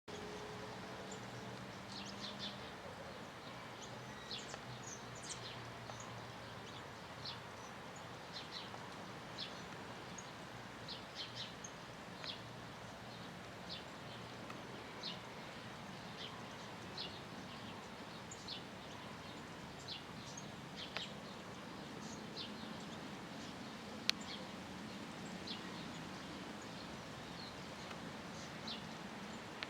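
Small birds chirping: short high notes repeated at irregular intervals, about one a second, over a steady outdoor hiss, with a single sharp click about 24 seconds in.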